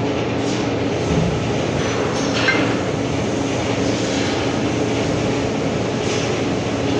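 A machine running steadily with a constant low hum and drone, and a few faint clicks.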